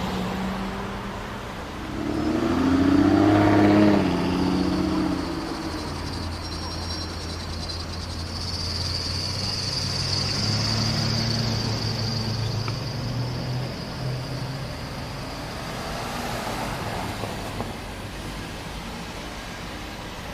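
Lexus LFA's V10 engine revving. It is loudest about two to four seconds in, its pitch rising then falling, and then runs on more steadily and quieter. A high steady hiss sits over it through the middle.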